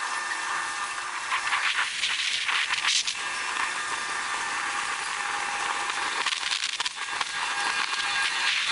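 A steady hiss with scattered crackles, with a few faint steady high tones running under it.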